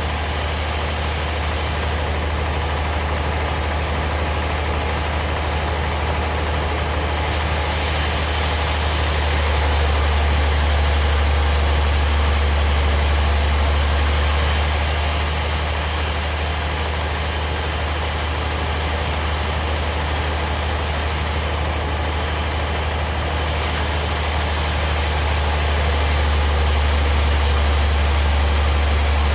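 Bandsaw sawmill running with a steady deep hum. Twice, for several seconds each, it grows louder and a high hiss joins in as the blade cuts through the wood.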